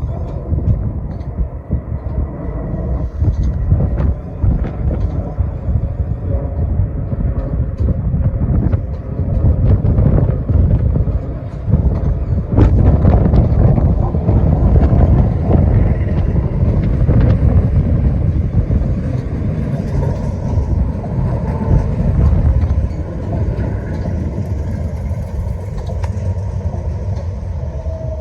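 A passenger train running through the station: a heavy, continuous rumble with short clicks of wheels over rail joints. It grows louder about halfway through, then eases slightly near the end.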